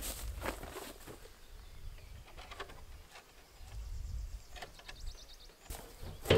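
Birds calling outdoors, with scattered small knocks and rustles, and a sharp knock at the very end.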